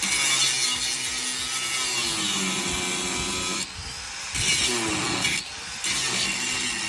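A power tool cutting, running hard with two short letups, about three and a half and five and a half seconds in.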